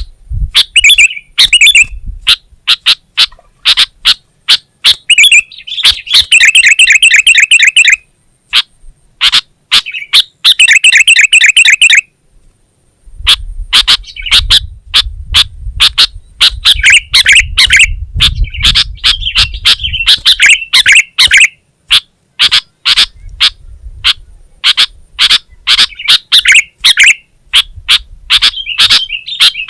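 Sooty-headed bulbul calling loudly and rapidly: a dense run of sharp chirps broken by fast rattling trills, with a brief pause about twelve seconds in.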